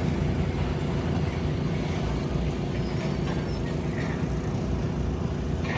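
Heavy diesel engine running steadily with a low rumble, with a few faint knocks over it.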